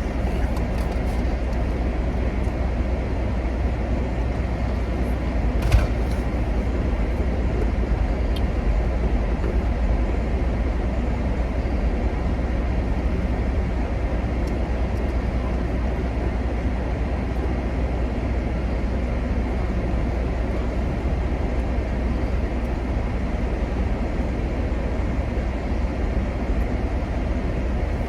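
Steady low rumble of a car heard from inside the cabin, with one short click about six seconds in.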